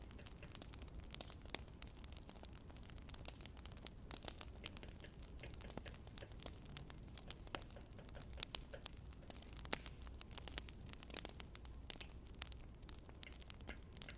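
Wood fire crackling, with irregular sharp snaps and pops over a faint steady low hum.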